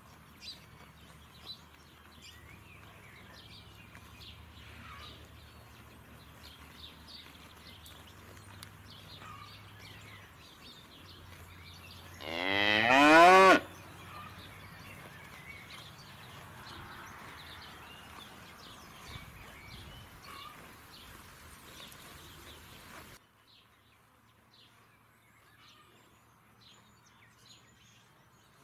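Black-and-white dairy cow mooing once, a single loud moo of about a second and a half that rises in pitch, about twelve seconds in.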